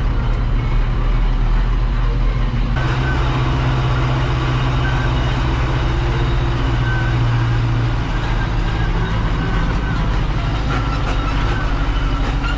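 Engine of a heavy farm vehicle running steadily, with a change in tone about three seconds in.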